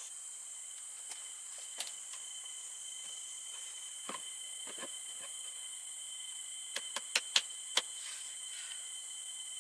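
Steady high-pitched insect chorus with a thin steady tone. Over it come scattered sharp knocks or clicks, the loudest a quick run of four or five about seven to eight seconds in.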